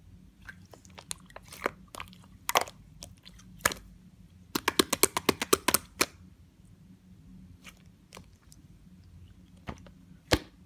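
Yellow clear slime being pressed and squeezed by hand, giving sharp clicks and pops as air pockets burst. A quick run of about ten clicks comes about halfway through, with scattered single pops before and after.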